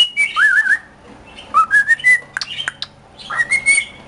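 Male cockatiel singing: a run of whistled notes and warbling, rising glides in three short phrases, with sharp clicks between them.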